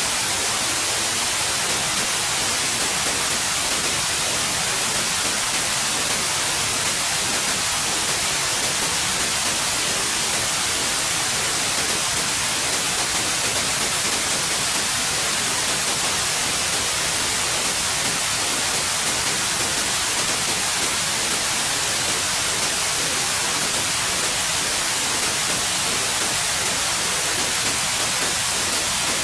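Steady, unbroken white noise: an even hiss, strongest in the high frequencies, with no change in level.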